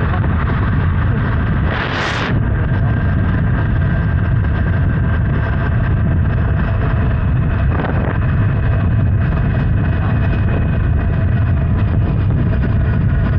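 Honda Hornet 900's inline-four engine running at a steady cruise on the move, with wind rushing over the microphone. A short hiss cuts across about two seconds in.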